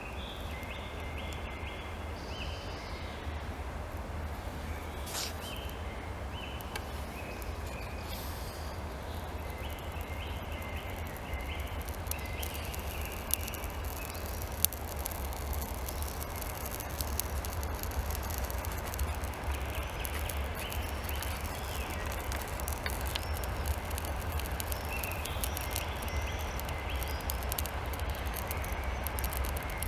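Outdoor ambience: a steady low wind rumble on the microphone, with birds chirping in short repeated phrases near the start, in the middle and again near the end.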